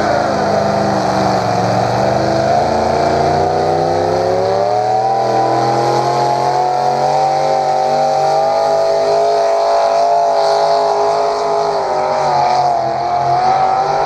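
Pulling tractor's 327 cubic-inch V8 engine running flat out under load as it drags the sled, its pitch held high and wavering slightly, with a brief sag near the end.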